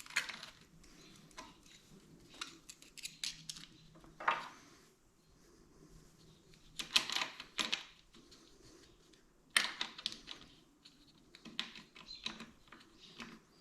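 Light metal clicks and clinks, in scattered clusters, as a YZ125 transmission shift drum is handled, lined up and fitted into the engine case.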